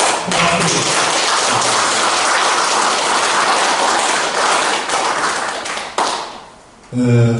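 Audience applauding, a dense patter of many hands clapping for about six seconds, then fading out.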